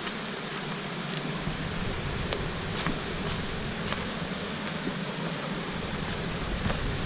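Steady rush of water from a jungle river and waterfall, an even hiss, with a few faint clicks.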